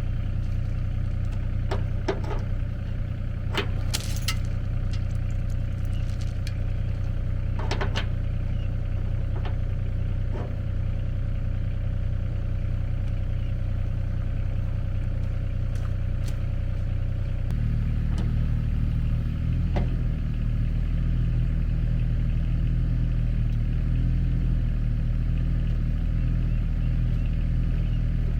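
An engine running steadily, with a few sharp clicks and knocks in the first several seconds. About two-thirds of the way through, the engine note changes and gets somewhat louder and fuller, as if the revs or load change.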